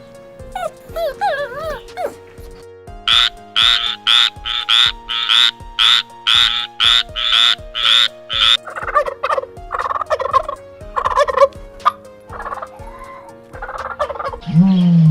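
A run of about a dozen short, rapid animal calls, about two a second, followed by scattered lower calls, over background music with held notes.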